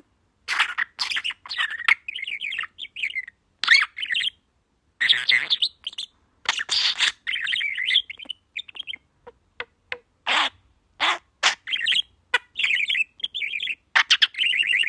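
A small pet talking bird chattering: chirps and warbling trills in many short bursts with brief gaps between them.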